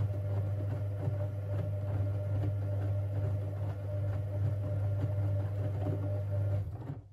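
Siemens Siwamat 6143 washing machine's motor turning the drum during a boil wash: a steady mechanical hum with faint irregular knocks of the tumbling load, stopping near the end as the drum pauses in its wash rhythm.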